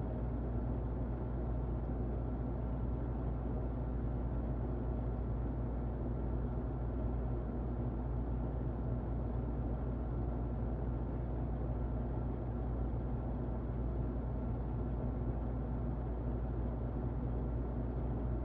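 Muffled electric fan running steadily: a constant, low, dull whooshing noise with a faint steady hum in it.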